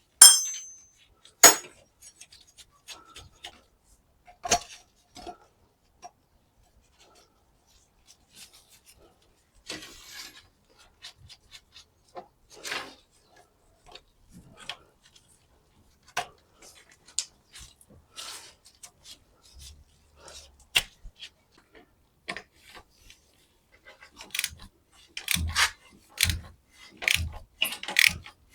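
Scattered metal clinks and knocks of tools and parts being handled, then, in the last few seconds, a socket ratchet clicking in a steady run of strokes about one a second as the nut on a new timing belt tensioner is done up.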